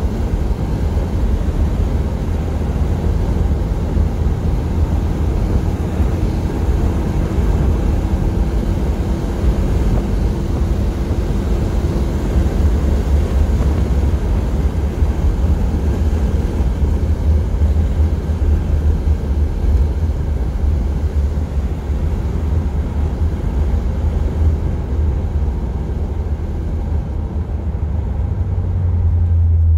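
Newly installed V8 engine of a 1978 Corvette Stingray running at a steady cruise, a deep low note mixed with road and wind noise, heard from inside the car. Near the end the low engine note swells louder.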